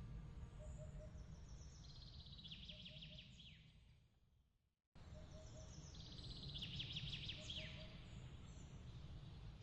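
Faint nature ambience: a songbird sings trilled phrases with quick falling notes, over a steady low rumble and soft low chirps repeating about once a second. The sound fades out about four seconds in, then cuts back in abruptly and repeats the same bird phrase: a looped recording.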